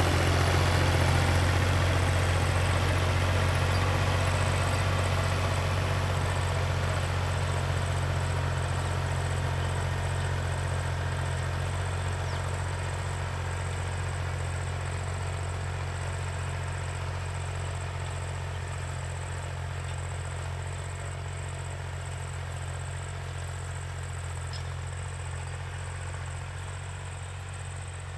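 Tractor engine running steadily with a deep hum, gradually growing fainter.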